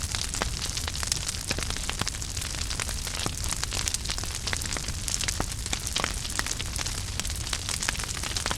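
Wood fire burning in a fireplace: a steady low rumble and hiss with many irregular sharp crackles and pops.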